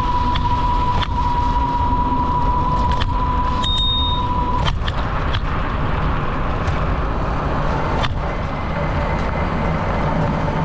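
Steady low rumble of wind and tyre noise from a bicycle being ridden, with scattered clicks and rattles. A steady high whine runs through the first half and stops suddenly.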